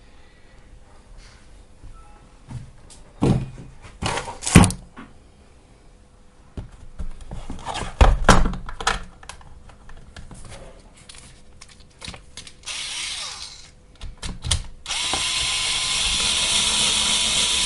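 Cordless power screwdriver driving screws into a Geoby e-bike battery case: scattered knocks and clicks of handling parts, then a short run about twelve seconds in and a longer, louder, steady run from about fifteen seconds on.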